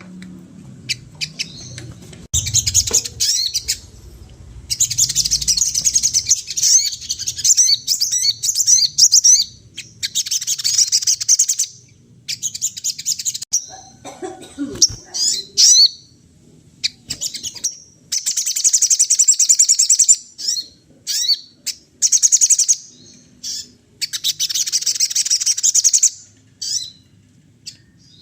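Sogon songbird singing loudly and continuously in repeated bursts of rapid, high twittering, each lasting a second or two with short pauses between them. This is the 'gacor' full song used as a lure, which includes imitations of other birds.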